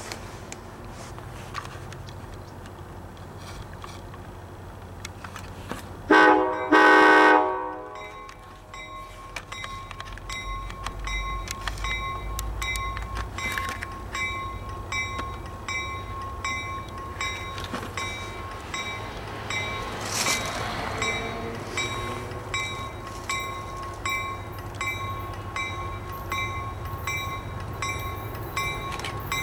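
ACE commuter train's horn sounding one loud blast of several notes together, about a second and a half long, starting about six seconds in. Afterwards the train's running noise grows louder, with a regular clatter roughly once a second.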